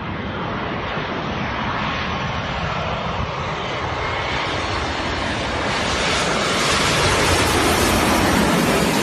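Airplane engines growing steadily louder as the aircraft comes in close, a broad rushing noise with a faint whine, loudest near the end.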